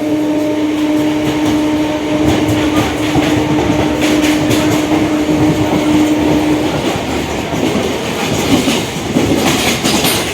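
Electric suburban local train running at speed, heard on board: a steady rumble with the clickety-clack of wheels over rail joints. A steady hum runs under it and stops about two-thirds of the way through.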